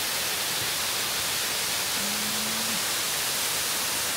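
Chebonet Falls' water falling, an even, steady rush. A short low steady tone sounds about halfway through.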